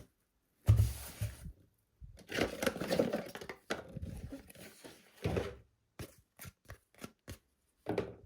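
Handling noises from small objects: a low thump about a second in, stretches of rustling, then a quick run of five or six small clicks near the end.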